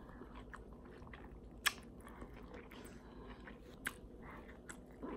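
Close-up chewing and biting of food, faint, with soft mouth ticks and two sharp clicks, about a second and a half in and near four seconds in.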